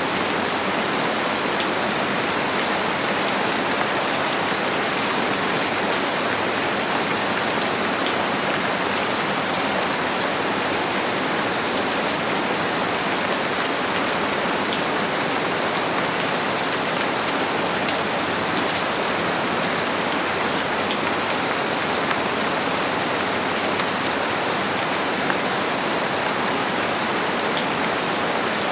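Steady heavy rain falling, a constant hiss with many small sharp drop ticks.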